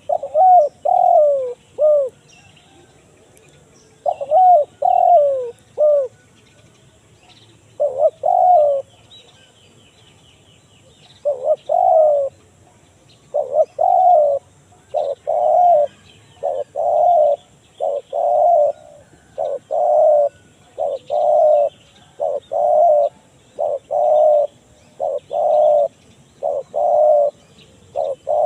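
Spotted dove (tekukur) cooing in the 'kuk 1 mersik' call type, a lure call for drawing in wild doves. It gives a few spaced groups of coos at first, then repeats its coo phrase steadily about once a second. Faint chirping of small birds is heard behind it.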